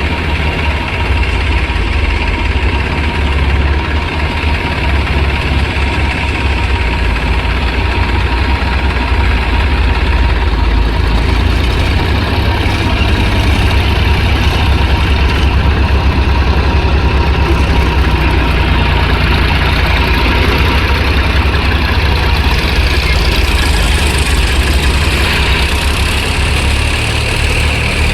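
Tractor diesel engine running steadily at idle.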